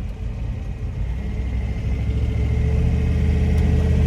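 Turbocharged 5.3-litre LS V8 in a Nissan Hardbody pickup running on the street, its engine note growing steadily louder from about a second in as it pulls.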